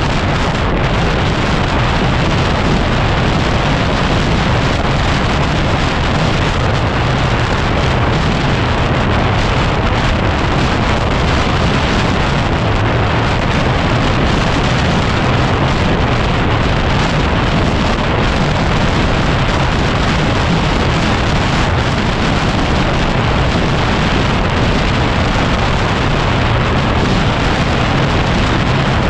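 Heavy wind noise on the microphone of a camera riding on a moving dirt bike: a loud, steady rush of noise with no breaks.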